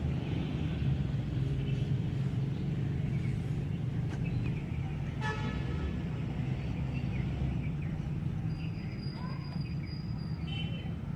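Diesel locomotive passing with a steady low engine drone. A short, high-pitched toot sounds about five seconds in.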